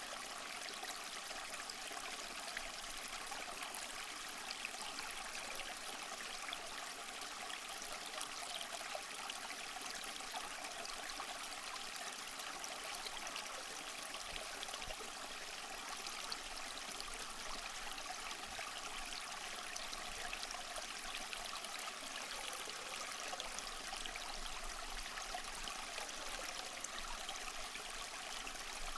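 Small mossy waterfall: water splashing and trickling steadily over rocks, a light, bright rush without deep rumble.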